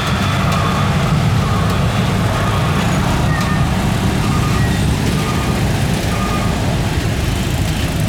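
Steady low engine rumble with a few faint, short beeping tones over it.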